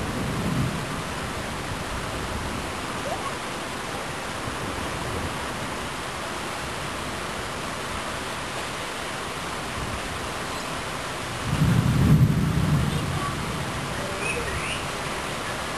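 Steady rain during a thunderstorm. The end of a rumble of thunder fades out at the start, and a louder roll of thunder comes in about two thirds of the way through, then dies away.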